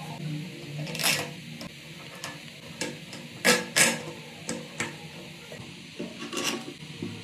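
A handful of short scraping strokes, uneven in spacing, from a hard object rubbed against a surface.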